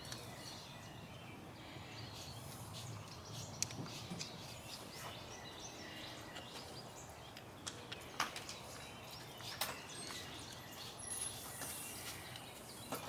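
Quiet outdoor ambience with faint bird calls, broken by a few light clicks and knocks.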